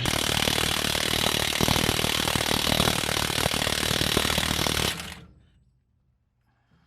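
Impact wrench hammering in a continuous rapid rattle for about five seconds, driving the pinion nut onto the yoke, then stopping abruptly.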